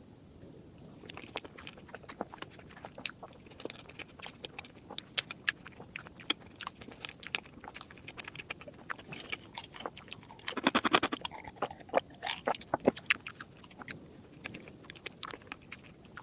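Close-miked eating of chocolate desserts: scattered crisp bites and chewing clicks, with a dense run of crunching about ten to eleven seconds in.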